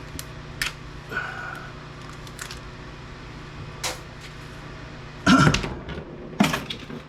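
Hands handling salvaged circuit-board parts from a backup power unit on a workbench: a few light clicks, then two louder clattering knocks about a second apart near the end, over a steady low hum.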